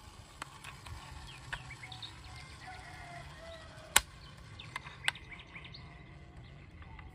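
Outdoor ambience with birds chirping here and there over a low rumble, and two sharp clicks, the louder about four seconds in and another about a second later.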